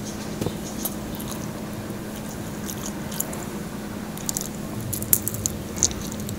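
Close-miked chewing of crispy pata (deep-fried pork knuckle), with wet mouth sounds and short crackling crunches. The sharpest crunches come about five and six seconds in, over a steady low hum.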